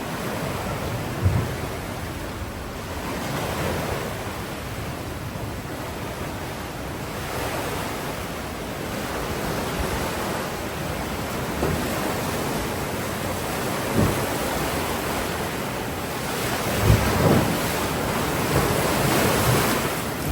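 Ocean surf washing and breaking on the shore, a steady rush that swells and eases, with wind on the microphone and a few brief low thumps.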